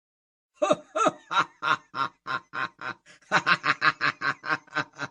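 A person laughing in a long string of short, even 'ha' pulses, starting after a brief silence and growing denser in the second half.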